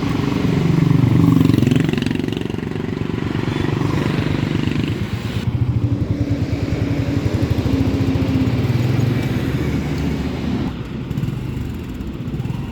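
Royal Enfield Meteor 350's single-cylinder engine running, its pitch shifting with the throttle in the first couple of seconds, then running fairly steadily.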